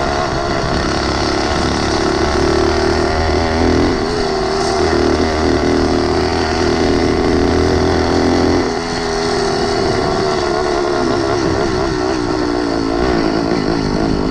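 Small engine of a motorized bicycle running steadily under throttle, then easing off a little over halfway through as the throttle drops.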